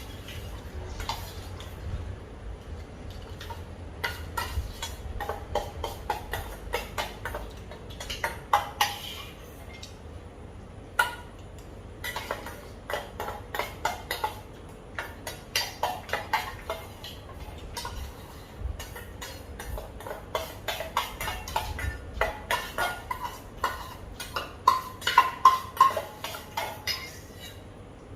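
Utensils clinking and tapping against a plate or bowl in quick runs of light clicks, loudest near the end.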